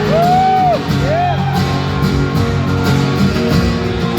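Live acoustic guitar playing the song's intro, steady sustained chords, with a few short cheers from the audience that rise and fall in pitch, two near the start.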